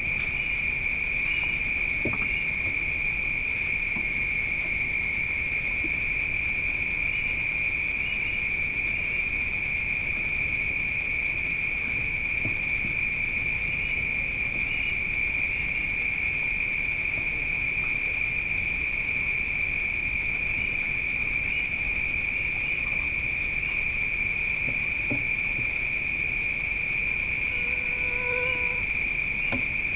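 Night insects, crickets, trilling in a steady, unbroken chorus at a high pitch. A brief low pitched tone sounds near the end.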